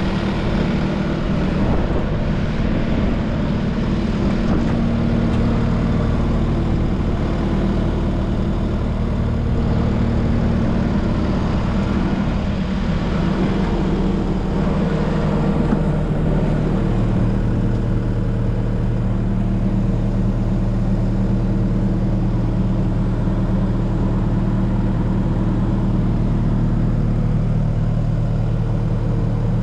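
Case TR270 tracked skid steer's four-cylinder turbo diesel engine running steadily, its tone shifting slightly a couple of times.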